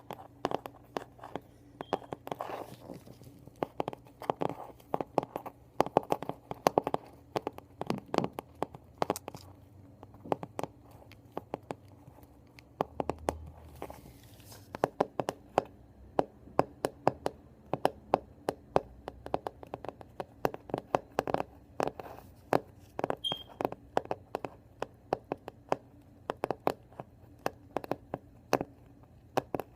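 Long fingernails tapping on a hardcover book, sharp clicks in quick irregular clusters.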